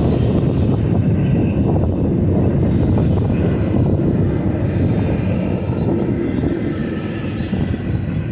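Freight train cars rolling past on the mainline: a loud, steady rumble of wheels on rail, with faint high-pitched squeal from the wheels in the second half.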